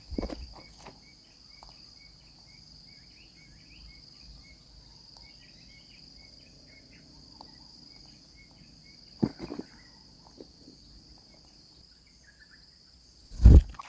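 Steady, high-pitched drone of insects, with faint short chirps repeating through the first two-thirds. A few knocks or bumps cut in, the loudest just before the end.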